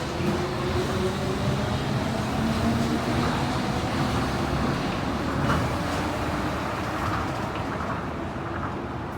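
Tokyo Monorail 1000 series train running, heard from inside the car: steady running noise with a motor whine slowly rising in pitch, easing off in loudness near the end.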